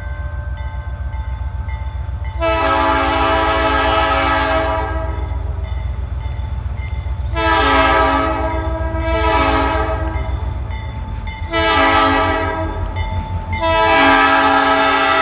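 A locomotive's multi-chime air horn sounds a sequence of blasts over the low rumble of the slow-moving train: a long blast about two seconds in, shorter ones in the middle, then longer blasts near the end. This is the pattern of a train whistling for a grade crossing.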